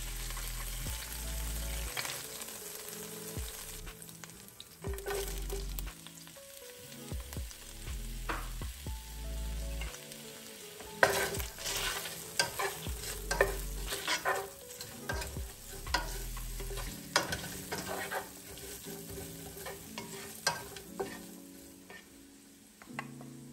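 Hot oil sizzling in a pot as tongs lift seared chicken out, with light clinks. About eleven seconds in, sliced red onions go into the oil and frying takes over, with repeated taps and scrapes of a wooden spatula stirring them.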